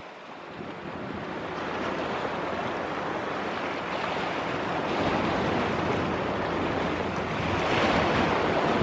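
Steady rush of strong wind and rough sea, with wind buffeting the microphone, swelling slowly louder.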